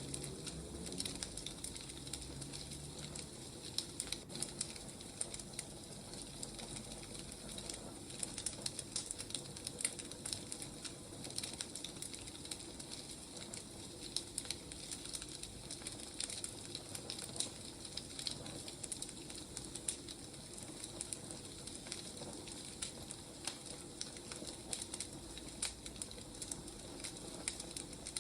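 Burning firewood crackling steadily, with many small irregular pops and snaps.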